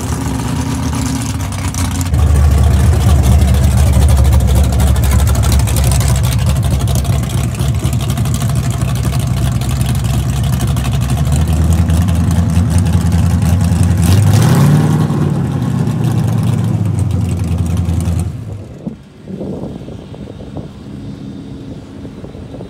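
Loud car engine running close by with a steady, even rumble, revved up briefly about two-thirds of the way in. It drops away sharply near the end to a much quieter background.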